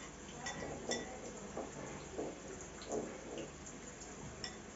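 A metal spoon clinking lightly against a bowl a few times as yogurt with granola is eaten, with soft chewing sounds in between.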